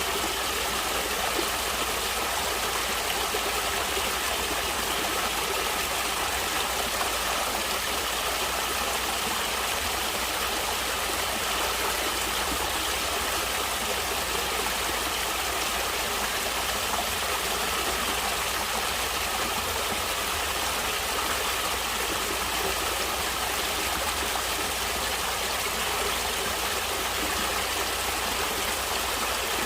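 Natural running water flowing steadily, an even, unbroken rush.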